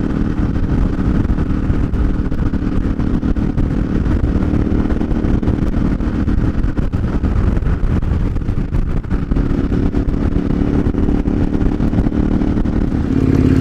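KTM 1090 Adventure R's V-twin engine running steadily under way, with wind rush on the rider's microphone; the engine note drops away for a couple of seconds about seven seconds in, then returns.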